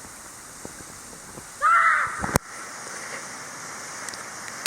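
A single loud, harsh bird call lasting under a second, rising and falling in pitch, cut off by a sharp click.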